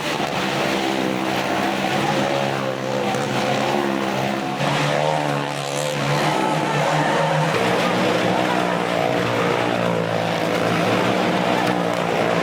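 Stunt vehicle engines, motorbikes and a car, running and revving, with several engine notes rising and falling at the same time.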